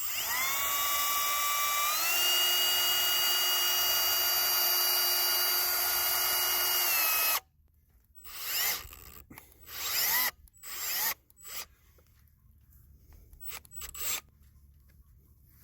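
Power drill driving screws into wood: one long steady whine that steps up in pitch about two seconds in and stops sharply about halfway through. Then comes a string of short bursts, each spinning up, as the screws are run home.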